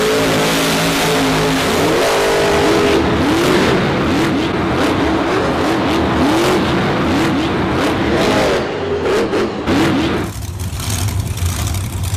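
Race-car engine sound effect dubbed over the toy race: a steady roar with the engine revving up in repeated rising sweeps, shifting up through the gears about every second, then falling away about ten seconds in.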